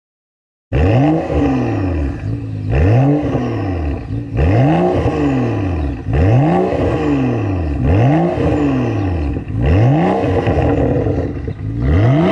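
BMW 435i's turbocharged straight-six through an IPE exhaust being revved about seven times, each rev rising and falling, roughly every second and a half. It starts abruptly under a second in.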